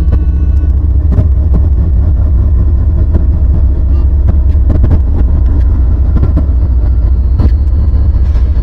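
Norfolk Southern freight train rolling past, a loud steady rumble with scattered sharp clicks from the wheels on the rails.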